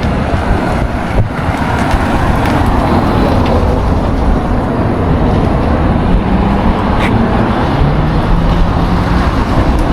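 Motor vehicle running with steady road noise; about six seconds in, a faint engine tone rises in pitch over a few seconds.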